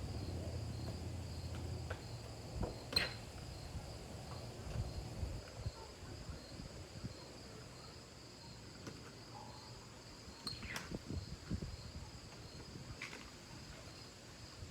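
Faint, steady high-pitched insect chirring, with a few scattered light clicks.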